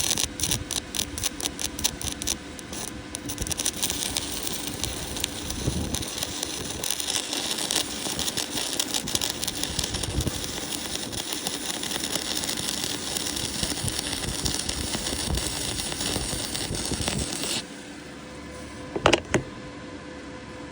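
Electric arc welding: the arc starts suddenly and crackles and sputters steadily for about seventeen seconds, then cuts off. A couple of sharp clicks follow near the end.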